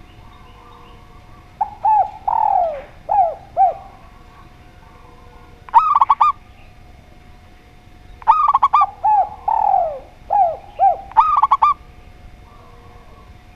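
Spotted dove and zebra dove cooing in turn, phrase after phrase: lower, falling coos alternating with three short bursts of quick, sharper repeated notes. A faint steady tone runs underneath.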